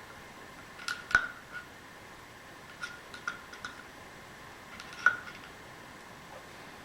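Ball bearings being worked off steel shafts by hand: short metal-on-metal clicks and clinks now and then, each with a brief ring, the sharpest about a second in and about five seconds in.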